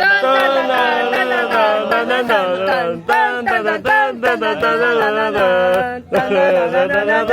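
Voices singing or chanting a melody in long held notes over a steady low drone, like a choral vocal music piece. It breaks off briefly twice, about three and six seconds in.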